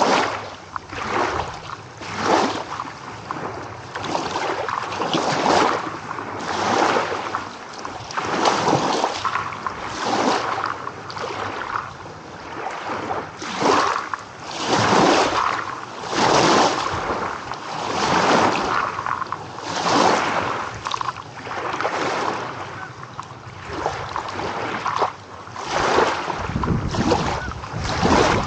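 Small ocean waves breaking and washing up on the shore, in repeated surges about every one to two seconds. A low rumble of wind on the microphone comes in near the end.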